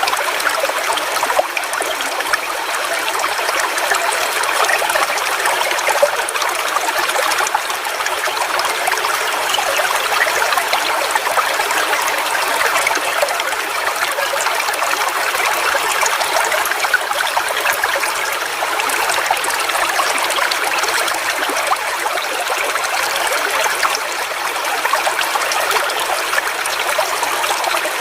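Forest waterfall: water splashing and flowing steadily, with no letup.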